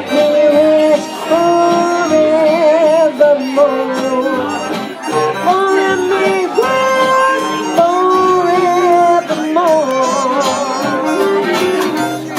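Live band playing an instrumental break: a lead melody with vibrato carried by a fiddle or clarinet over a plodding bass line and guitar.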